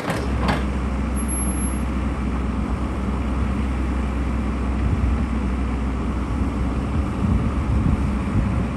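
Bobcat E55 compact excavator's diesel engine running steadily, with two sharp knocks in the first half second.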